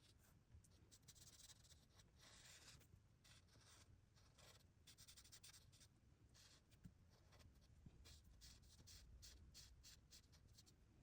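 Near silence, with faint irregular scratching or rubbing sounds coming and going.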